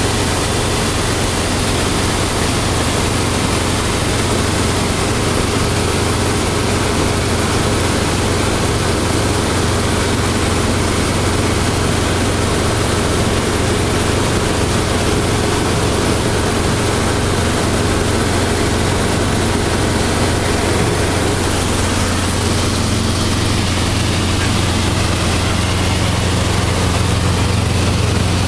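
Robinson R22 helicopter's piston engine and rotors running, a loud steady drone with a constant low hum and no change in level.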